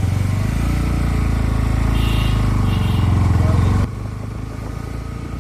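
Motorcycle engine running under way, its low steady note dropping sharply in level about four seconds in.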